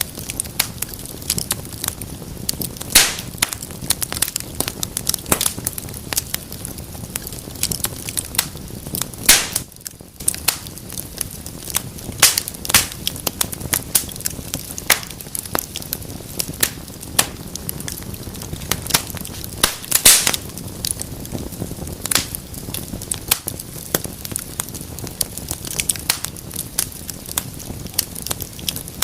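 Wood fire crackling in a fireplace: a constant patter of snaps over a low rush of flame, with a few louder pops about three, nine and twenty seconds in.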